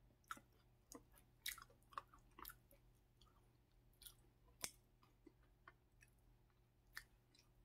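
Quiet mouth sounds of chewing crackers, with scattered sharp clicks and soft crunches; the loudest click comes a little after four and a half seconds in.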